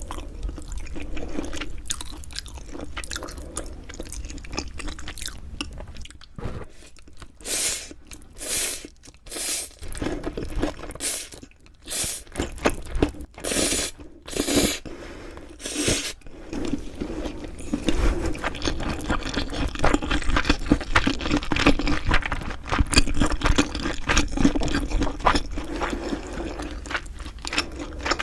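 Close-miked chewing with crisp crunching bites. A run of separate loud crunches comes about a quarter of the way in, followed by steadier, denser chewing through the second half.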